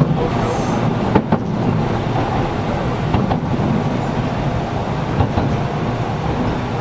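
Running sound inside a Gakunan Railway 7000-series electric railcar (car 7001) in motion: a steady rumble of wheels on rail, with the air conditioning running and a few sharp clicks, two of them about a second in.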